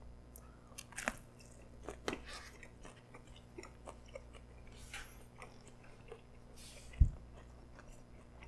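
Close-miked biting into a pretzel-wrapped hot dog with a crispy baked-cheese crust, then quiet chewing with small crackly clicks. A single low thump about seven seconds in.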